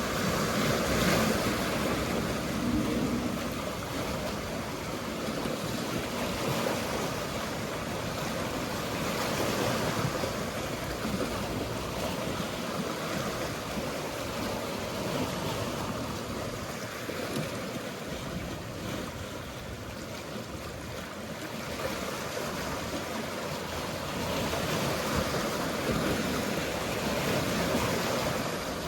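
Mediterranean sea waves washing against the shore in a continuous wash of surf, swelling near the start and again near the end.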